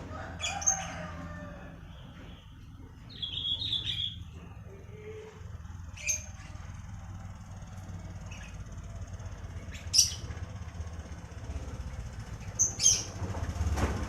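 Songbirds chirping in short, sharp high calls a few seconds apart, with a quick run of notes a few seconds in, over a low steady rumble.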